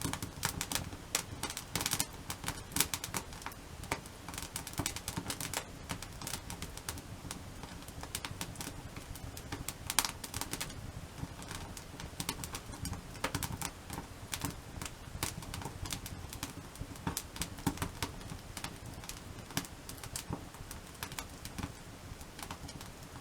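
Wood fire crackling, built in the igeta (log-cabin) style, with irregular sharp pops and snaps over a low steady rumble; the loudest pops come about three seconds in and again about ten seconds in.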